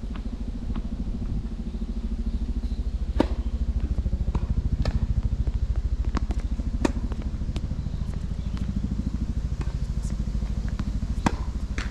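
Tennis balls struck back and forth with rackets, sharp pops about every two seconds with fainter bounces between. They sit over a steady, pulsing low rumble.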